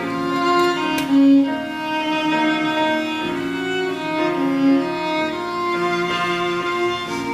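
Music on bowed strings, a violin carrying a slow melody over held notes.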